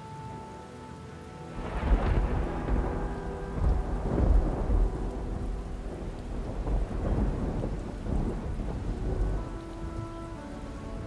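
Thunder rolling over steady rain: the rumble starts about one and a half seconds in and rolls on for several seconds with a few louder peaks before easing. Soft held music notes sit underneath at the start and near the end.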